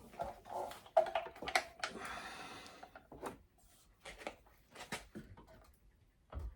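Irregular knocks and clatter of metal parts and hand tools being handled on a workbench, with a short scrape about two seconds in.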